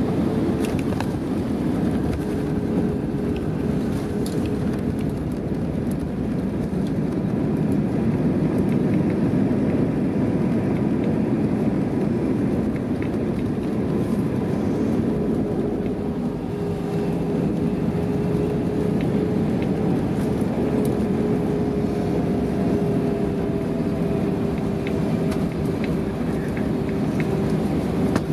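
Cabin noise of an Airbus A320 on the ground just after landing: a steady low rumble of engines and wheels, with a faint steady hum from the engines.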